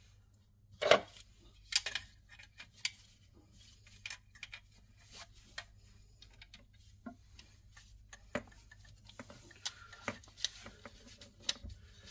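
Scattered small clicks and taps at irregular moments, the loudest about a second in: hands working stiff mains cables and hand tools into a wall socket's plastic back box.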